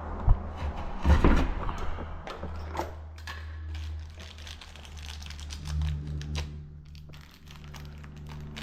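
Work noises: a sharp knock, then a cluster of knocks and a few scattered clicks and rustles, over a steady low hum.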